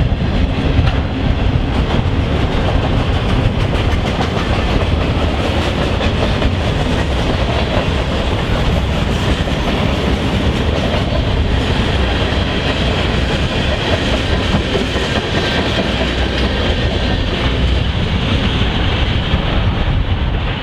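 A train passing close by, its cars rolling over the rail joints with a clickety-clack, loud and steady throughout.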